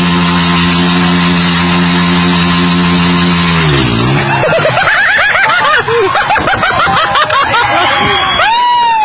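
A motorcycle engine held at steady revs for about four seconds, then its pitch drops and it cuts out. It is followed by many overlapping short rising-and-falling cries or squeals.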